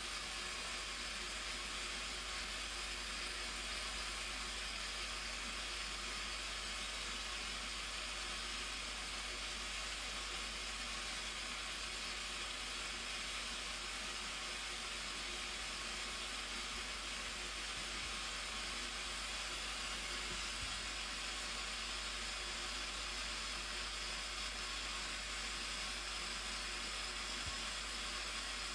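Blue Nile Falls' water rushing in a steady, unbroken roar with no change in level.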